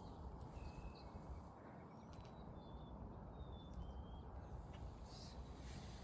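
Faint outdoor background: a steady low rumble with a few short, high bird chirps scattered through it.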